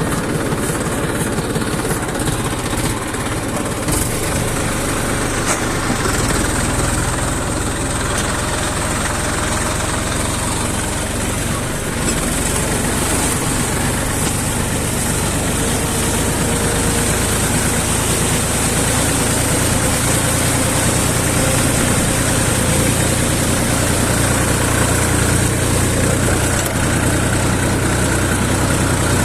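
Tractor engine running steadily at a low, even speed, close to idle.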